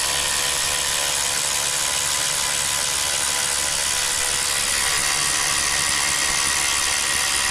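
Small cordless impact wrench running steadily as it drives an exhaust pipe fastener tight.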